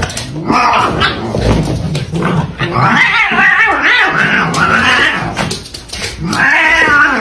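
A cat yowling in several long, wavering calls: a short one about half a second in, a long run through the middle, and another near the end.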